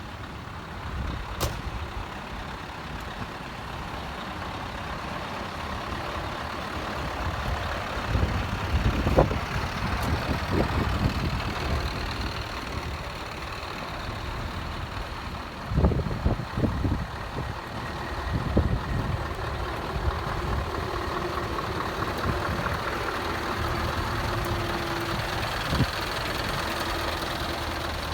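Heavy truck engines running and idling, a steady low rumble with a few louder low bursts about a third of the way in and again a little past halfway.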